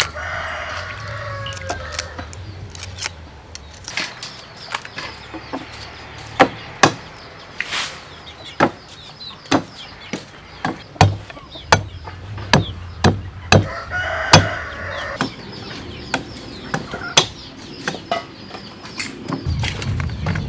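A rooster crowing twice, once at the start and again about fourteen seconds in. Through it run sharp clicks and cracks, roughly one a second, from blue crab shells being broken and cleaned by hand.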